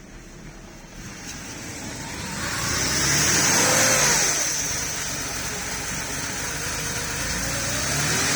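Porsche 3.2 Carrera's air-cooled flat-six running cold just after start-up. It is revved up and back down once a few seconds in, then holds a steadier raised speed and rises again near the end. The engine runs normally despite a leak-down test showing cylinder 1 holding only 22 psi.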